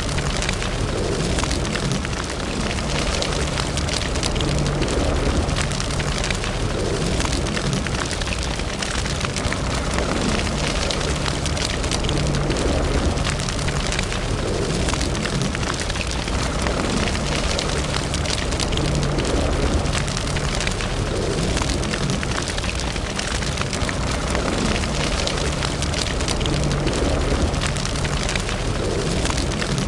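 Wood fire in a fireplace crackling and popping steadily, many small sharp snaps over a low rumble.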